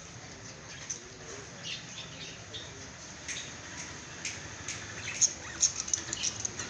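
Many small birds chirping together in a pet shop, short high chirps overlapping thick and fast, growing busier and louder in the second half.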